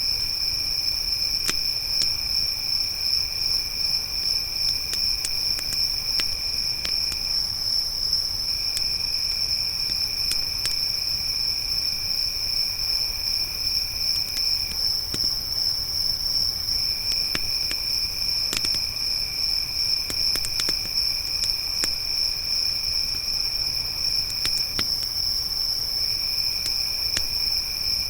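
Crickets chirping in a steady high trill, with a second, lower insect trill that stops and restarts three times. Sparse sharp crackles and pops of a campfire are scattered through it.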